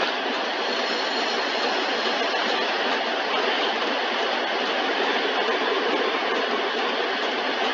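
Car wash tunnel water spray and washing equipment working over the car, a loud steady rushing and hissing heard from inside the car.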